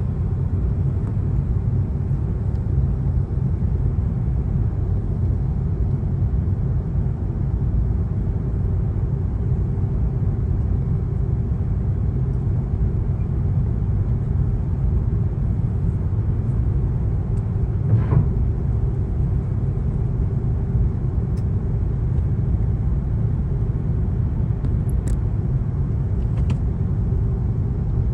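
Passenger airplane's steady low rumble of engines and airflow, with one short knock about eighteen seconds in.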